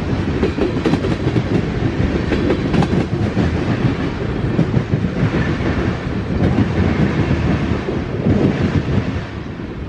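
Freight train cars rolling past, their steel wheels clacking over the rail joints in a steady rumble that drops off a little near the end.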